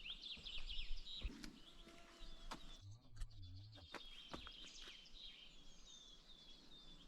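Songbirds singing in quick chirping phrases, with a few scattered footsteps.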